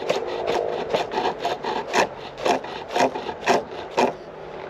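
Hand tool scraping and cutting the end of a chestnut tenon to chamfer it, in quick, even strokes that stop about four seconds in.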